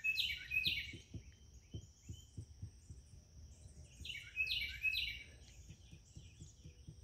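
A songbird singing in two short runs of chirped notes, one at the start and another about four seconds in, over a steady high-pitched background tone.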